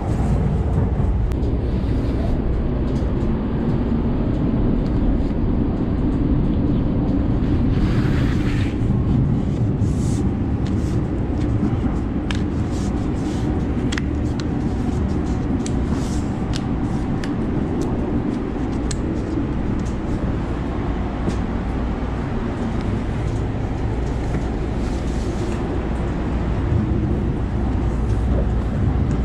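Steady low rumble of a light-rail train car running, heard from inside the car. A short hiss-like rustle comes about eight seconds in, then scattered light clicks.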